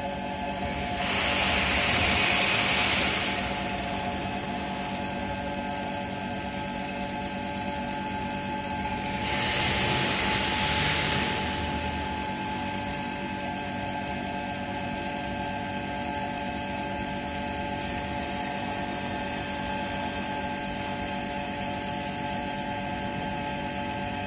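Vacuum pump running steadily with a constant hum and whine while it pulls vacuum on a sealed lab sigma mixer. Two louder bursts of hiss of about two seconds each come near the start and about ten seconds in.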